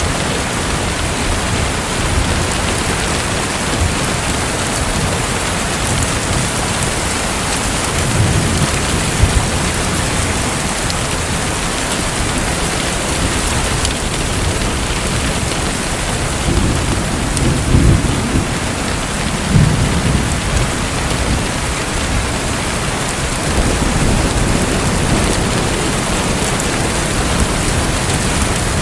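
Steady, dense hiss of falling or splashing water, with a few deeper low rumbles swelling up around a third of the way in and again past the middle.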